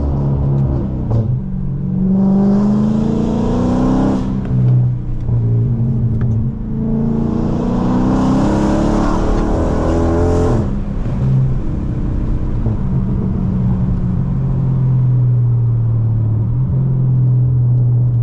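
Dodge Charger Scat Pack's 392 HEMI V8 through a straight-piped exhaust (catless midpipes and a race exhaust with no mufflers or resonators), pulling hard twice: each time the engine note rises in pitch with a raspy edge for two or three seconds, then drops as the throttle lifts. It then settles into a steady low drone while cruising.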